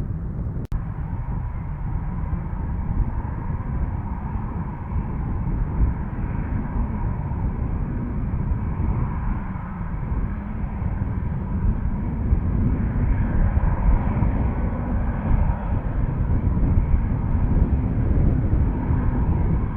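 Jet airliner engines running steadily, with a deep rumble, as an aircraft comes in to land; the sound briefly cuts out under a second in and swells slightly toward the end.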